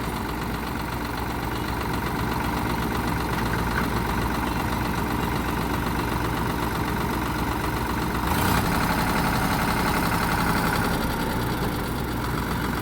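Diesel engine running steadily at idle, rising in level for about three seconds from roughly eight seconds in before settling back.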